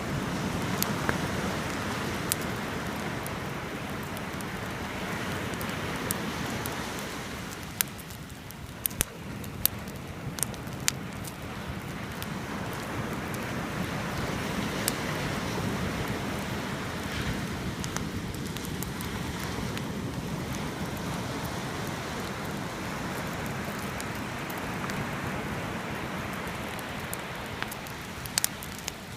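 Beach bonfire crackling, with sharp pops scattered through it, several about a third of the way in and a few more near the end, over the wash of sea waves that swells and fades every several seconds.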